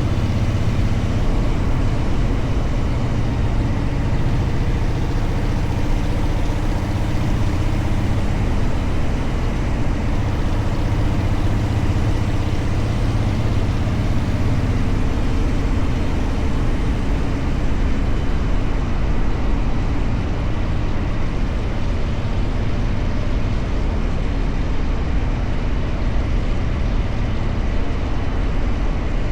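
Motorcycle engine running while riding, a steady drone mixed with road and wind noise.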